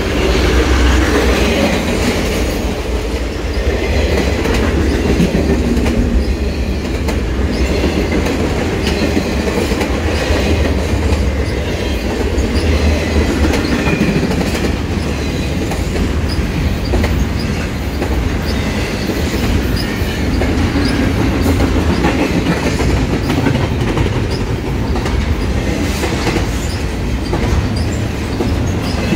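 Double-stack intermodal freight train rolling past close by: a steady heavy rumble with wheels clacking over rail joints, and now and then a brief high wheel squeal.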